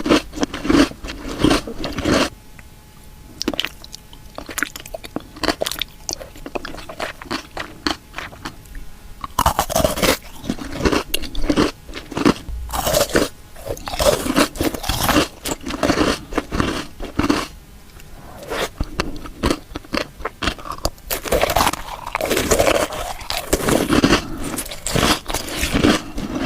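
Close-up crunching and chewing of something hard, in bursts of bites separated by quieter pauses.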